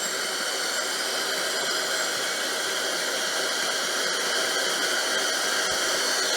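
Steady white-noise hiss from a portable sleep sound machine's speaker, slowly getting a little louder.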